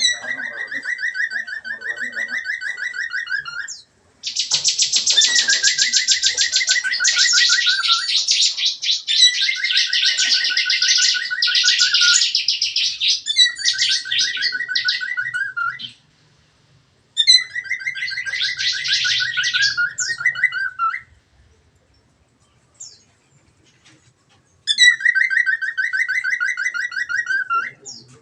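Small caged songbirds singing fast, pulsing trills in bouts of a few seconds with short pauses between. Through the middle a second bird's denser, higher trill overlaps the first.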